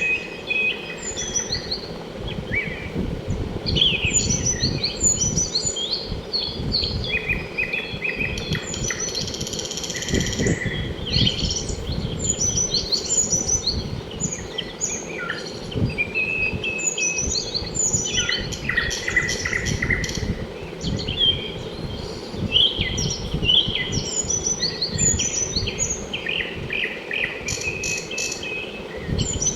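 A chorus of many small birds chirping and calling at once: overlapping quick chirps, short trills and downward-sliding notes with no pause. A steady low rumble runs underneath.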